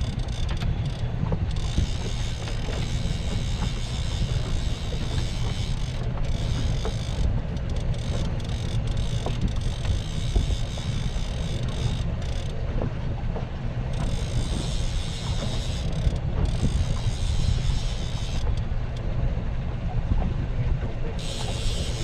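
Fishing boat's motor running steadily, a low rumble, with wind buffeting the microphone and a higher hiss that comes and goes.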